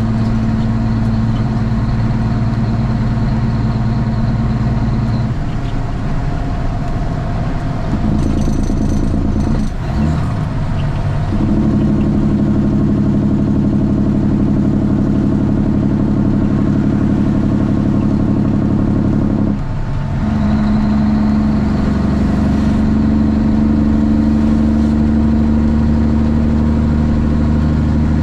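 Straight-piped Cummins ISX inline-six diesel of a Kenworth T800 running under way, its tone stepping to new steady pitches with brief breaks about ten seconds in and again near twenty seconds, as gears are changed.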